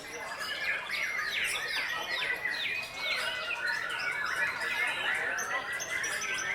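White-rumped shama (murai batu) singing a fast, dense stream of down-slurred whistled notes and chatter.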